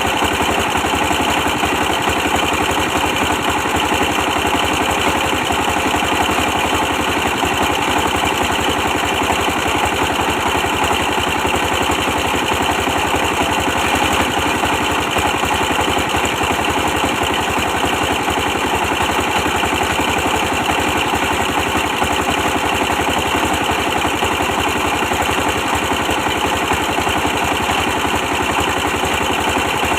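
A 24 hp diesel engine running steadily at a constant speed, with a rapid, even pulsing and no change in pace.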